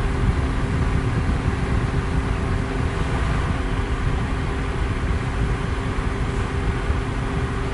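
Electric fan running steadily: an even rush of moving air, strongest in the low end, with a faint steady motor hum under it.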